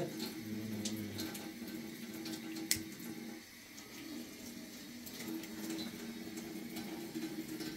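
Wood fire burning in a cast-iron stove: a steady rushing sound with scattered sharp crackles and pops, the loudest pop about two and a half seconds in.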